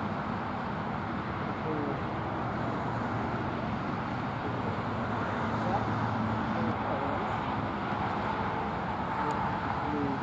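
Steady road traffic noise, with a bird's short high chirps repeated about six times a couple of seconds in.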